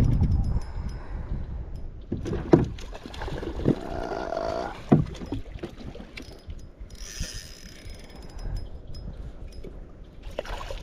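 Sounds from a kayak while a fish is played on light line: the rumble of handling near the start, a few sharp knocks in the middle, and a short hiss like water splashing about seven seconds in.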